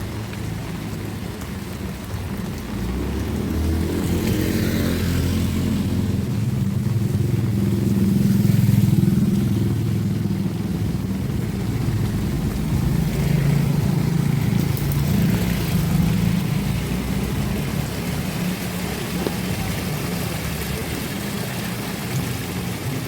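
A motor vehicle engine running, its pitch rising and falling as it swells louder about a third of the way in and again past the middle.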